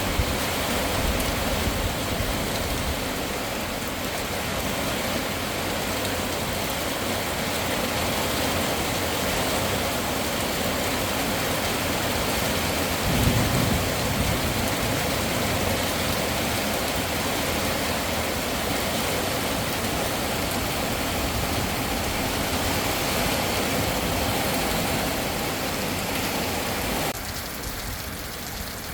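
Heavy rain falling steadily, with a brief low rumble about halfway through. Shortly before the end the rain gets quieter and duller.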